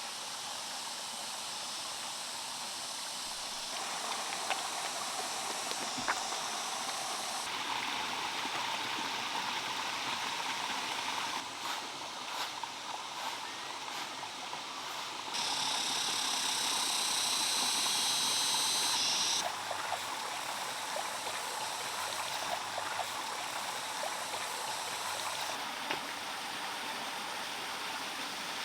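Running water from a stream, a steady rushing and trickling that changes abruptly in strength and brightness several times, louder for a few seconds just past the middle, with a few faint knocks.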